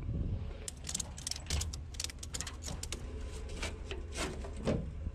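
Ratchet strap being cranked tight: a run of sharp metallic clicks, several a second, over a low steady rumble.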